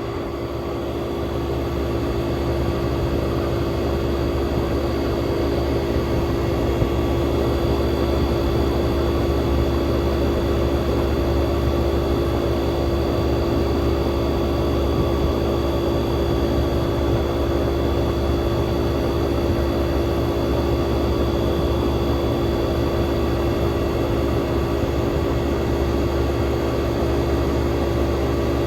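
1967 Chrysler Airtemp Imperial air conditioner running: a steady mechanical hum with a constant drone over a low rumble and a hiss of moving air. It swells over the first couple of seconds, then holds level.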